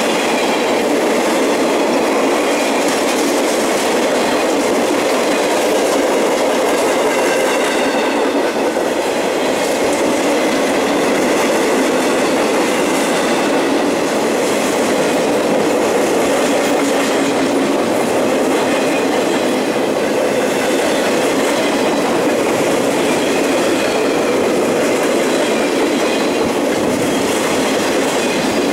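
Cars of a Norfolk Southern work train rolling past close by at speed: the steady rumble and clatter of steel wheels on rail, with faint high wheel tones above it. The consist runs from bunk cars and a gondola to flatcars loaded with track-maintenance machines.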